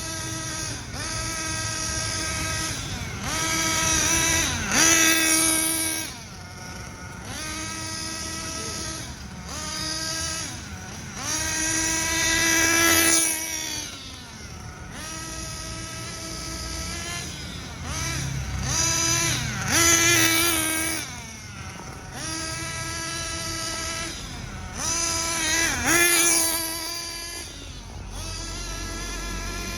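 Hobao Hyper VS nitro RC buggy's two-stroke glow engine running during break-in, a high buzzing note. It surges into a louder burst about every seven seconds as the pitch rises and then falls, between steadier stretches.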